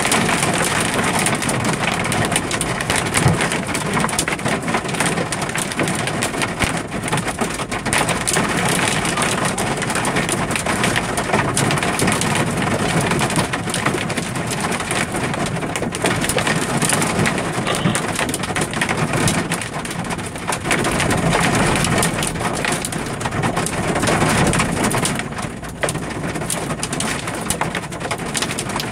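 Storm hail and rain pelting a vehicle in a loud, dense, continuous patter of hard hits that swells and eases slightly but never stops.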